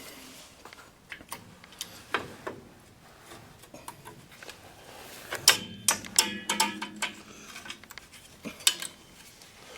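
Metal clicking and clinking of a brake spring tool against brake shoe springs and hardware on a 1966 Ford F100's front drum brake, with a quick run of sharp, briefly ringing clinks about five to seven seconds in.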